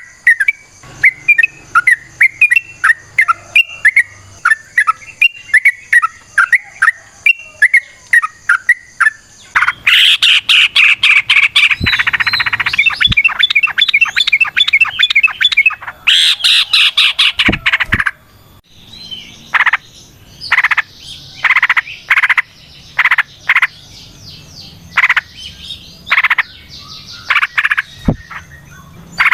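Yellow-vented bulbul (trucukan) singing long runs of rapid chirping notes. A quick run gives way to a louder dense chatter about ten seconds in, then a brief pause and a string of separate notes.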